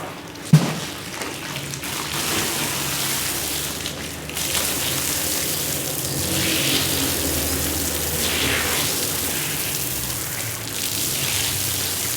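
Water spraying onto a shag rug during cleaning, a steady rain-like hiss that swells a few times as the spray moves. There is a single sharp knock about half a second in, and the hiss grows louder about two seconds in.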